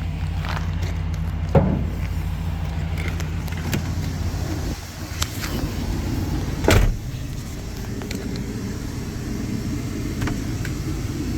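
Car engine idling steadily, with two short knocks, the louder one about seven seconds in.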